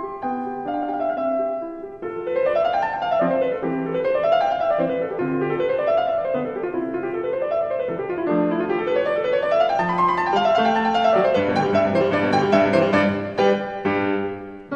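Solo piano music: a few slow notes, then flowing arpeggios rising and falling from about two seconds in.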